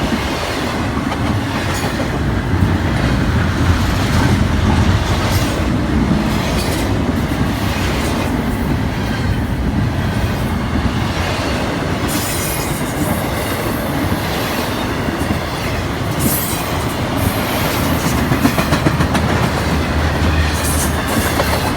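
Intermodal freight cars rolling past, wheels clacking over rail joints with a steady rumble, and short high-pitched wheel squeals breaking in a few times in the second half.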